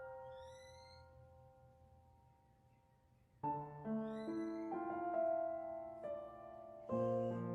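Soft, slow relaxation piano music: a held chord fades out, new notes come in about three and a half seconds in, and another chord sounds near the end, with a faint rising shimmer above it twice.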